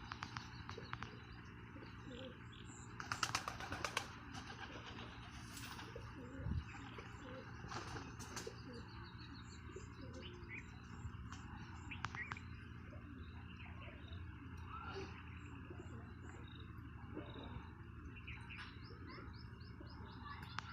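Birds chirping in short high calls, with doves cooing low, over a steady low background hum.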